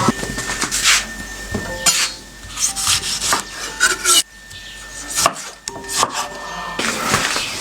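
Irregular scraping and rubbing strokes, roughly one or two a second, with a quieter stretch midway.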